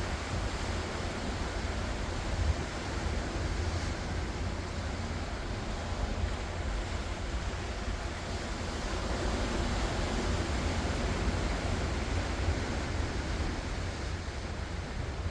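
Ocean waves washing onto a shore in a steady surf hiss that swells a little in the middle, with a low rumble of wind on the microphone underneath.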